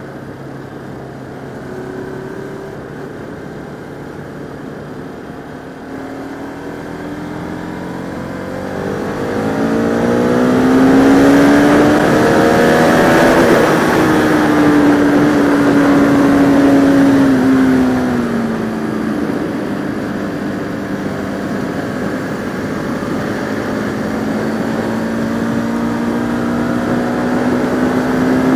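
Motorcycle engine heard through a helmet camera, with a steady rush of wind noise. The revs climb for several seconds, hold, fall off, then build again near the end.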